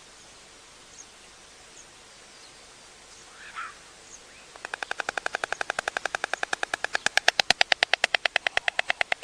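White stork bill-clattering: a fast, even rattle of about eight claps a second that starts about four and a half seconds in and grows louder near the end.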